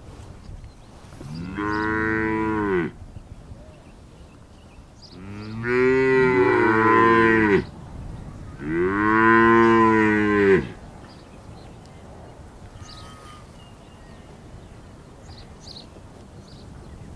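Cows mooing: three long moos of about two seconds each, the middle one with two cows calling over each other. Faint high chirps come between the calls.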